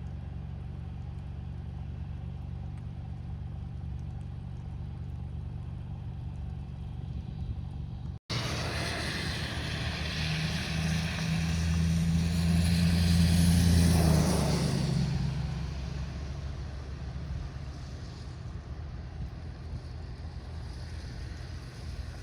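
A steady low rumble, then after an abrupt break a motor vehicle passing by: the engine hum and noise swell to their loudest a few seconds later and fade away.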